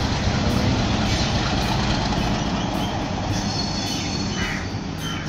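A train running nearby: a steady rumble with an engine hum, easing a little toward the end.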